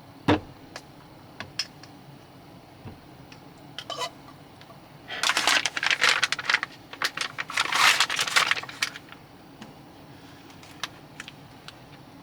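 Small hard objects being handled, clattering and scraping: one sharp knock near the start, a few light clicks, then two dense bursts of rattling in the middle.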